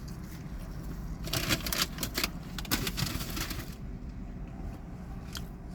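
Low, steady rumble of street traffic, with a quick run of sharp clicks and crackles between about one and four seconds in.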